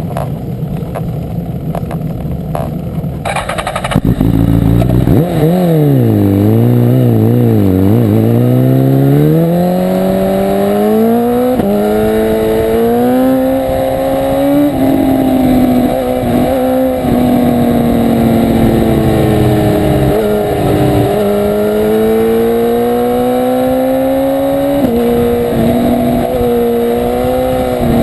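1000 cc superbike engine revving, then pulling away hard. About four seconds in it gets loud, and its pitch swings up and down for a few seconds. It then climbs steadily through the gears, dropping sharply at each upshift, about four times.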